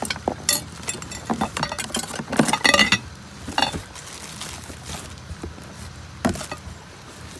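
Small hard objects clinking, rattling and knocking as household items are handled and rummaged through. There is a busy cluster of clatters in the first three seconds and a few single knocks later, over a steady low hum.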